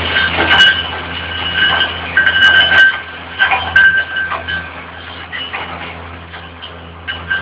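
Rail-mounted vacuum excavator sucking up soil: a steady low engine drone under a whistling of air at the suction hose that comes and goes, with scattered clicks of stones and earth being drawn in. The whistling and clatter ease off after about four seconds.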